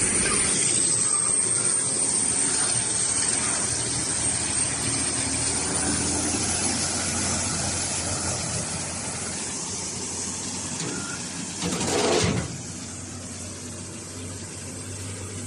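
HOWO 6x4 dump truck's diesel engine running steadily, slowly getting quieter, with a short, loud burst of noise about twelve seconds in.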